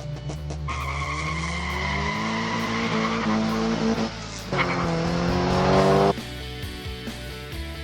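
Race-car engine sound effect revving hard, with a short break about four seconds in, then revving again and cutting off suddenly about six seconds in, over background music.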